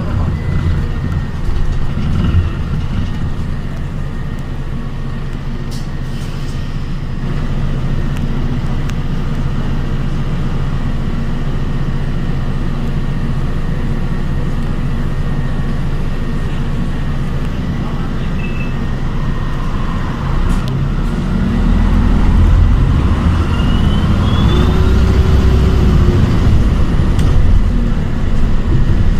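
Cabin sound of an ADL Enviro 400 hybrid double-decker bus on the move: a steady low drive rumble and road noise that gets louder about two-thirds of the way through, with a brief rising whine soon after.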